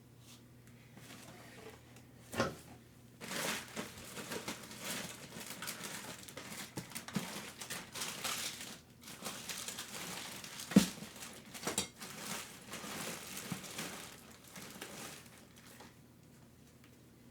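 Plastic parts bags crinkling and rustling as they are rummaged through, with a few sharp knocks; the loudest knock comes about two-thirds of the way in.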